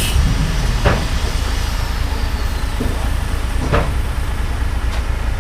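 Heavy diesel engine running steadily, with two short knocks, one about a second in and one near the end.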